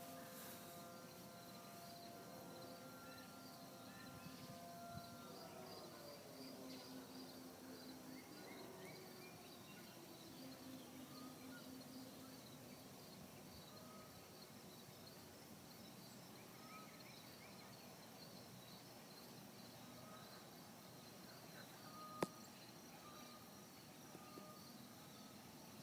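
Faint insects chirping steadily, with a few faint steady tones that slide down in pitch and fade out in the first several seconds. A single sharp click about 22 seconds in.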